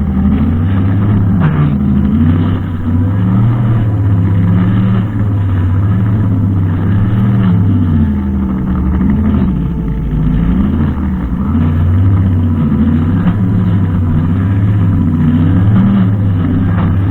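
Brushcutter engine running without a break, its pitch rising and falling every second or two as it works.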